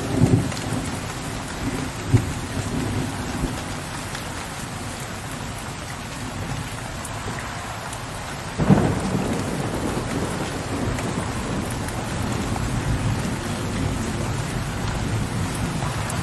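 Steady rain with thunder. A low rumble dies away in the first second; about nine seconds in, a sudden thunderclap gives way to a long, low, rolling rumble under the rain.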